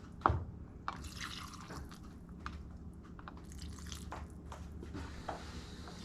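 Liquid dripping and splashing in a cooking pan, with a sharp clink of a utensil about a quarter second in and scattered small ticks after it.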